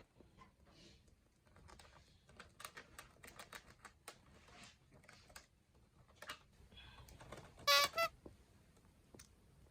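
Cockatiels gnawing at a wooden basket with their beaks: irregular crisp clicks and cracks of wood being bitten. About two thirds of the way through come two short, loud, pulsing chirps.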